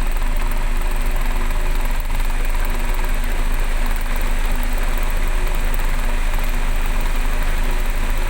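Crane truck engine running steadily under heavy rain, whose hiss fills the sound evenly throughout.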